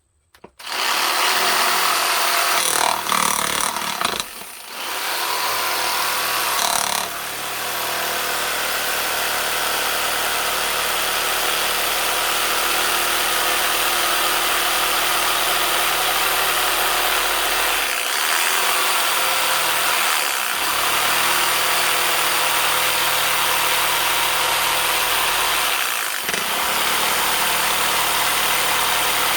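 Electric woodworking power tool starting up about a second in and running steadily on wood, with brief dips in level now and then.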